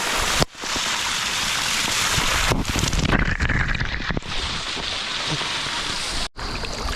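Rushing water, a steady loud wash of stream or waterfall noise close to the microphone. It cuts out sharply twice, about half a second in and near the end.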